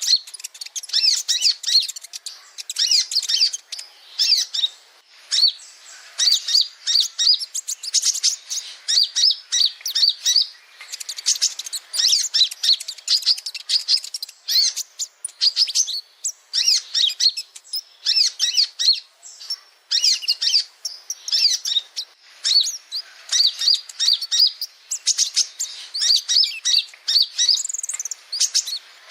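Male kolibri ninja (a sunbird) singing: a fast, high-pitched stream of chirps and twitters in long phrases broken by short pauses.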